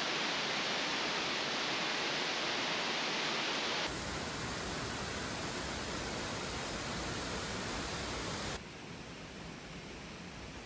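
Steady rush of falling water from a waterfall. It drops abruptly in level twice, about four seconds in and again near nine seconds.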